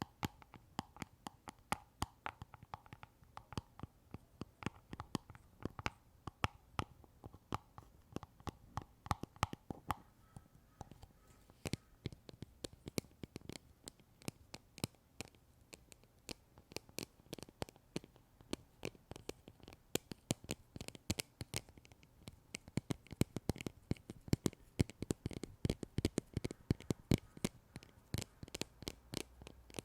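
Close-miked ASMR trigger sounds: rapid, irregular small taps and clicks, several a second.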